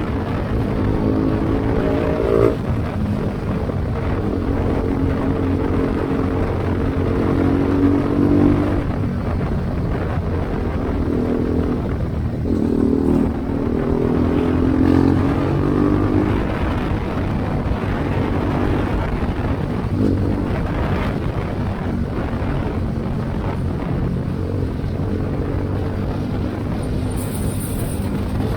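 BMW G310GS single-cylinder engine running through a baffle-less Akrapovic exhaust while riding: the revs climb and drop off sharply about two and a half seconds in, climb again around twelve to sixteen seconds in, and ease off in between, under a steady rush of wind.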